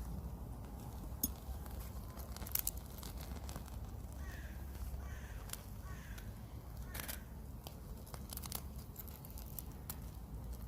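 Knife carving a wooden spoon: irregular short scraping and cracking strokes as shavings are cut from the wood, the sharpest about a second in, twice around two and a half seconds, and again near seven and eight and a half seconds.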